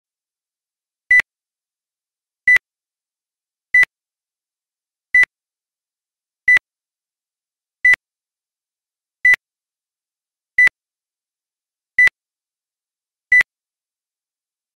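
Ten short electronic beeps, all at the same high pitch, about one every 1.4 seconds with silence between. Each beep marks one number of a countdown from ten.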